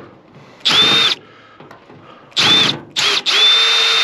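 Power drill run in short bursts, its motor whine rising in pitch as each burst starts: two short runs and a brief blip, then a longer steady run from about three seconds in.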